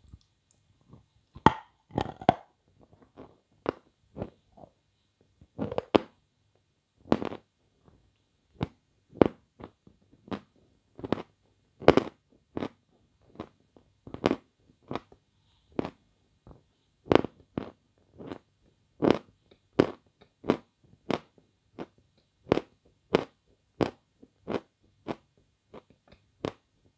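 Crunching of a lump of hard Bogorodsky sugar being chewed. Two sharp, loud crunches come about a second and a half in, then steady crunches at roughly one and a half to two a second.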